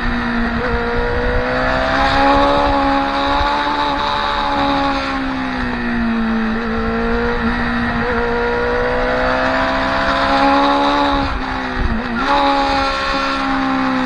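Motorcycle engine running hard on track, heard onboard, its pitch rising and falling gently with the throttle. There is a brief sharp dip in pitch about twelve seconds in, like a gear change, and a steady rush of noise underneath.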